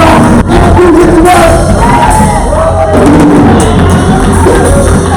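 Church gospel music at full volume: instruments holding a steady low bass under singing voices, with shouts from the congregation.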